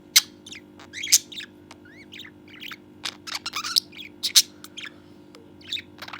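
A budgerigar chattering: a rapid string of short chirps, clicks and quick rising whistles in uneven clusters.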